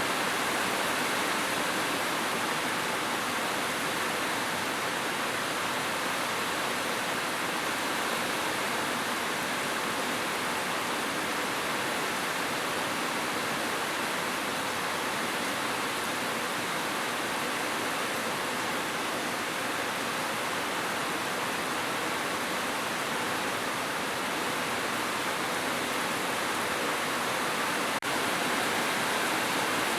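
Heavy rain falling steadily on a roof, an even hiss with no thunder, broken only by a very brief dip near the end.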